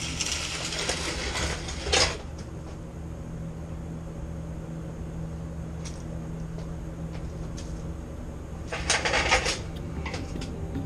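Jeep transmission being dragged out from under the vehicle: scraping and sliding of metal, once in the first two seconds and again about nine seconds in, with a few light clinks in between over a steady low hum.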